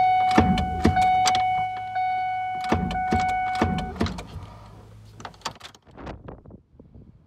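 2001 Ford F-150 5.4L Triton being cranked: the starter engages with sharp clicks and a steady hum, but the engine does not turn over. The hum stops about four seconds in, leaving fainter, fading clicks. The cause, found later, is a seized A/C compressor pulley locking the belt.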